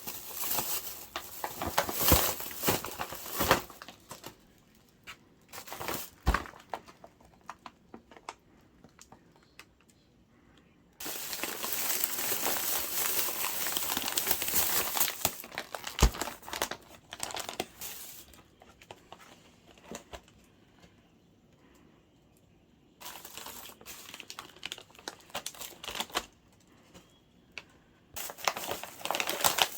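Plastic packaging or bags crinkling as they are handled, in bursts with quiet pauses between, and a few sharp knocks.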